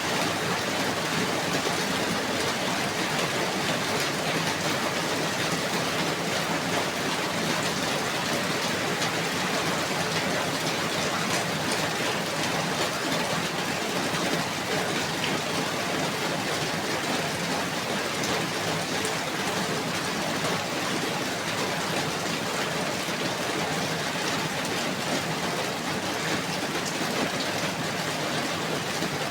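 Steady rain falling, an even hiss of many drops on surfaces with fine pattering throughout.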